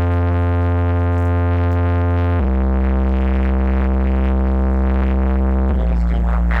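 Electronic remix music played loud through a sound system's subwoofers: long held deep synth bass notes, dropping lower about two and a half seconds in and shifting again near the end.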